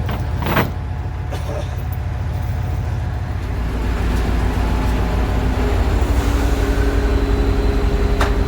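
Truck engine running steadily, with two sharp knocks in the first second. About three and a half seconds in the engine speed rises, and a steady whine joins it a little later.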